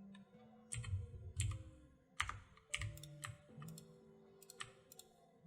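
Computer keyboard keys tapped at irregular intervals, about a dozen separate sharp clicks, some in quick pairs.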